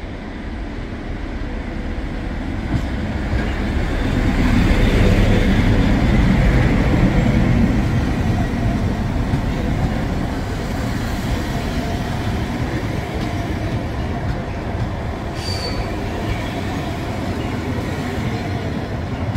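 A train rolling along the station tracks. Its rumble swells over the first few seconds, peaks, and then carries on steadily, with a brief high wheel squeal about three-quarters of the way through.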